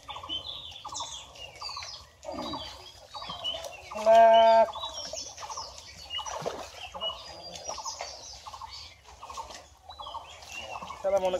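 Birds calling: a run of short repeated calls and high chirps, with one louder held call about four seconds in.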